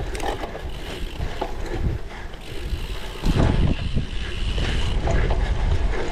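Cyclocross bike ridden over rough ground: wind buffets the microphone while the tyres rumble and the bike rattles and clicks. A louder rumble comes a little over three seconds in.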